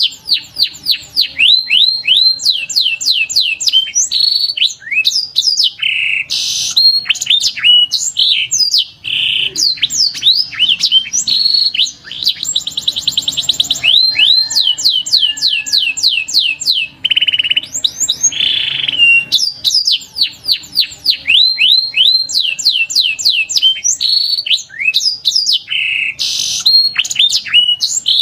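Domestic canary singing a long, continuous song of rapid falling notes and rolling trills, with a very fast trill about halfway through.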